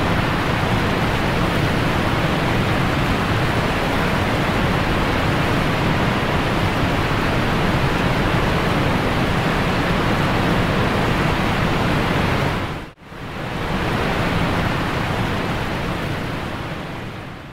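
Steady, even rushing noise with no tone or rhythm in it, broken by a sudden brief dropout about 13 seconds in and fading out near the end.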